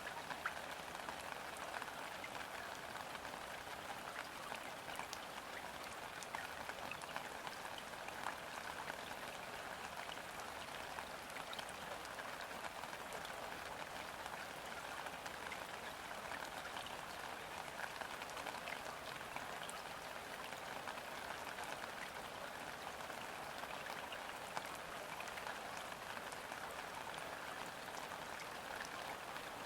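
Steady rain falling on a river's surface: a dense, even patter with scattered single drops ticking out more sharply.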